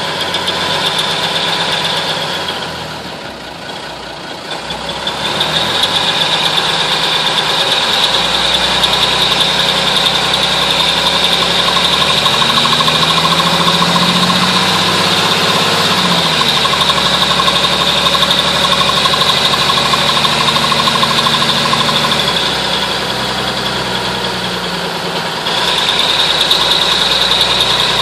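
M931 5-ton military truck's Cummins inline-six diesel engine running. The engine note falls and quiets about three seconds in, climbs back and shifts in pitch midway, then drops again briefly near the end. A steady high whine rides on it and fades out when the engine note falls.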